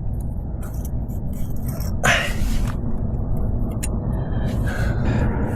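Steady low rumble of road traffic, with a brief loud hissing rush about two seconds in and a few faint clicks.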